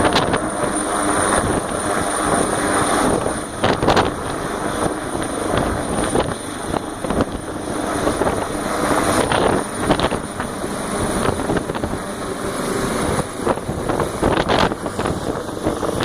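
Medical helicopter running close by: steady turbine and rotor noise with a constant high turbine whine and occasional gusty swells.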